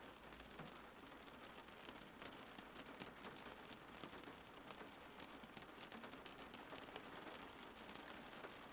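Rain falling steadily and faintly, with many small drop ticks striking a surface.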